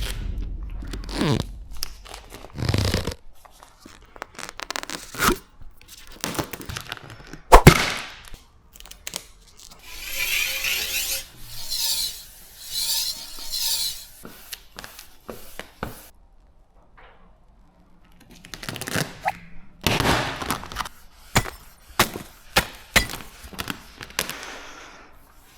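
Hands and tools working vinyl wrap film onto a car bonnet: irregular taps, knocks and rubbing, with a sharp knock about seven seconds in and three short hissing scrapes of film about ten to fourteen seconds in.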